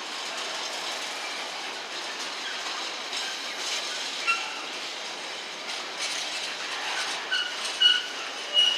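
A train's wheels running on the rails with steady noise, and several short high-pitched wheel squeals from about four seconds in, the loudest near the end.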